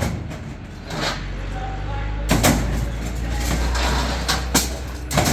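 A vehicle engine running with a steady low rumble, under several sharp knocks and thumps, the loudest about two and a half seconds in and near the end, with voices in the background.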